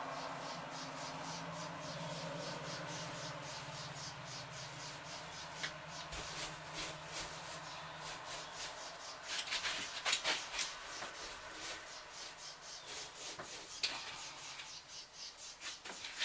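Paint being worked onto a surface with quick back-and-forth strokes: a rhythmic scratchy rubbing, several strokes a second, stronger in the second half. A low steady hum fades out about halfway through.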